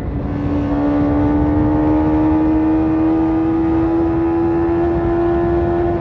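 Tuned BMW S1000RR inline-four through an Akrapovic carbon exhaust, held at high revs under load, its note rising slowly and steadily over a constant rushing noise. It swells in the first second.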